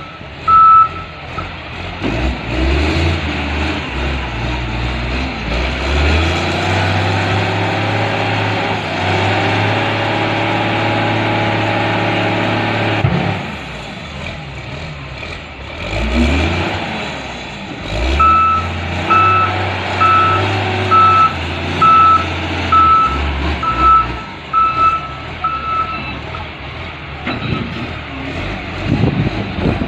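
Diesel engine of a loader working under load. It revs up and holds high for several seconds in the middle, then drops back. The back-up alarm beeps right at the start and again for about eight seconds later on, about one and a half beeps a second, as the loader reverses.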